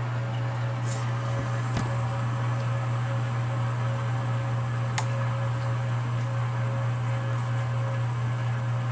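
Well pump running steadily, building pressure in a newly installed pressure tank before the pressure switch cuts off: a constant low hum, with a light tick about 2 s in and another about 5 s in.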